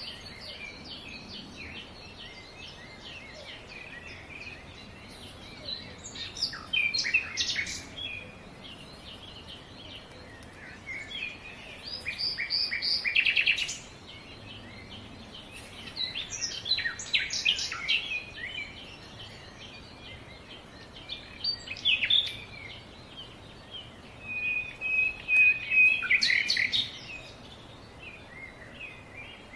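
Several birds chirping and calling, with a steady background of faint chirps and louder bouts of rapid chirps every few seconds.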